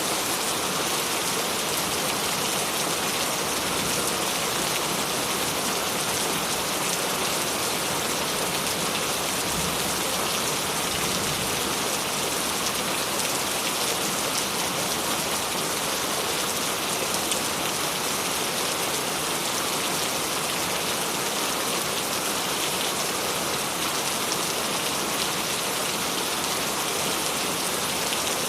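Steady, even rain falling and pattering on surfaces, with no change in strength.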